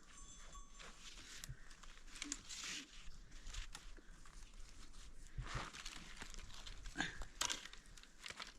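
Dry brush crunching and rustling, with scattered sharp snaps at irregular intervals.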